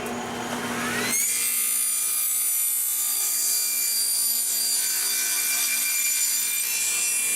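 Electric power saw spinning up to speed in about the first second, then running with a steady high whine while it cuts a wooden board.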